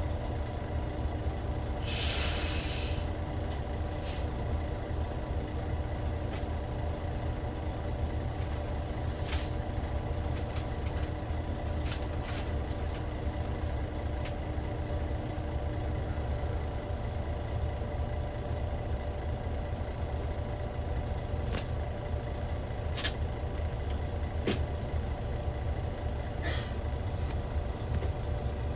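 Hyundai D6CC 380 hp diesel engine of a Hyundai Universe Comfort coach running steadily, heard from inside the bus. A short hiss of compressed air comes about two seconds in, and brief clicks and rattles are scattered through it.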